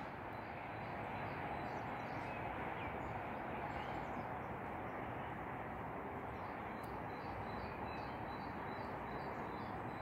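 Quiet outdoor ambience: a steady background hiss with small birds chirping repeatedly and briefly throughout.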